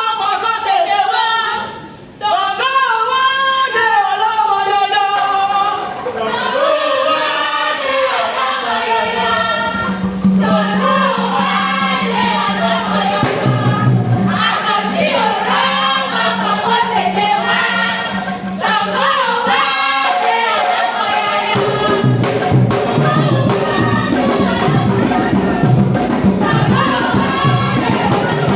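A group of voices singing together in chorus. A steady low tone joins about a third of the way in, and a low rhythmic beat comes in near the end.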